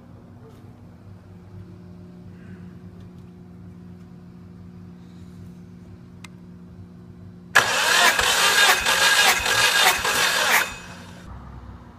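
Subaru EJ205 turbocharged flat-four engine under test: a low steady hum, then about seven and a half seconds in a sudden loud burst of engine noise lasting about three seconds, which cuts off and falls back to the hum.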